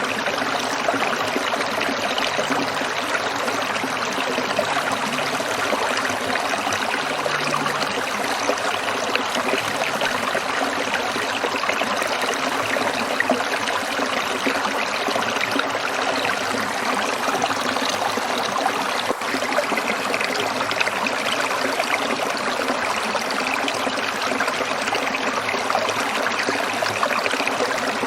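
Shallow stream water trickling and splashing over stones, a steady babble of many small splashes.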